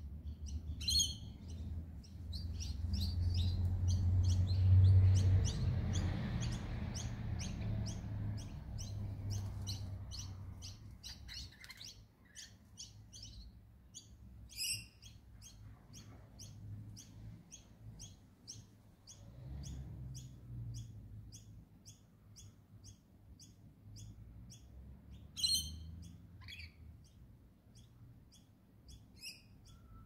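Birds calling: a steady run of short high chirps about two a second, broken by three louder harsh screeches, about a second in, near the middle and near the end. A low rumble, loudest about five seconds in, lies under the first ten seconds.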